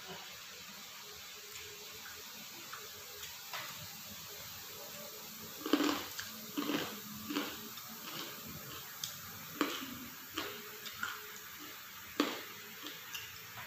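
Wet chewing and lip-smacking of chicken satay eaten by hand, close to the microphone: a string of irregular smacks that starts a little before halfway in, the loudest as the fingers go to the mouth.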